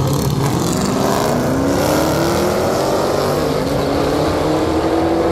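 Race car engines at full throttle accelerating down the track; the engine note climbs, drops once at a gear change about three seconds in, then climbs again.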